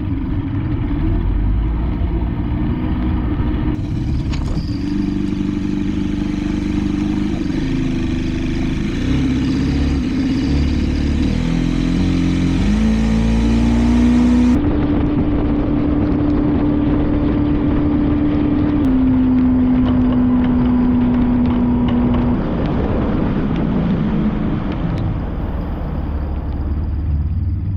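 Outboard motor of an old bass boat running under way with water and wind noise. Its pitch holds steady, rises about 12 seconds in and drops a little about 19 seconds in.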